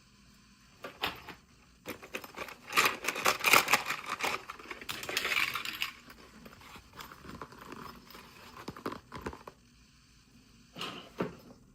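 Plastic packaging being handled and opened: a burst of crinkling, tearing and sharp clicks, busiest in the first half, then lighter scattered clicks and taps.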